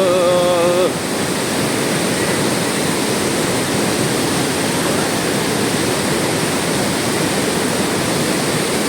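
Steady, loud rush of a waterfall. A wavering pitched call cuts off about a second in.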